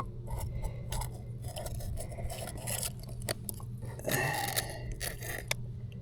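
Irregular scrapes and clicks of fishing gear being handled in a kayak, over a steady low hum, with a louder scratchy stretch about four seconds in.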